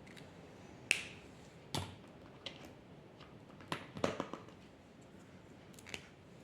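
Scattered sharp clicks and taps from drawing tools being handled, with a quick cluster about four seconds in.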